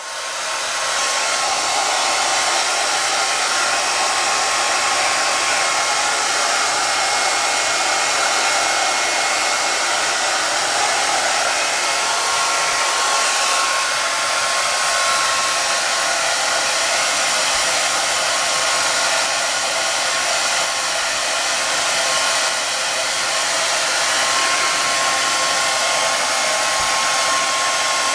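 Hand-held hair dryer blowing steadily, with a faint steady whine in its rush of air; it comes up to full level in the first second or so.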